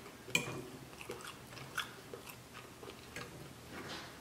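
Close-miked chewing of a mouthful of steak: soft wet mouth sounds with a few short clicks and smacks.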